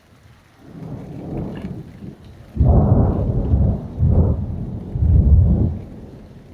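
Thunder: a low rumble builds about a second in, then breaks into loud, deep rolling crashes in three or four peaks before dying away, with rain falling throughout.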